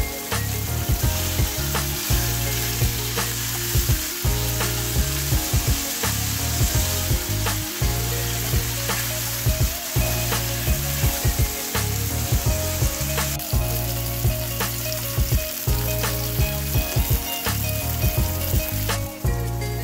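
Diced boiled sausage sizzling in hot vegetable oil in a non-stick frying pan, with a spatula stirring and clicking against the pan.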